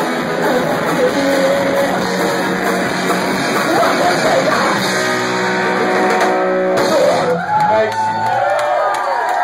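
Live pop-punk band playing loud electric guitars with shouted vocals; about seven and a half seconds in the music stops and the crowd yells and cheers.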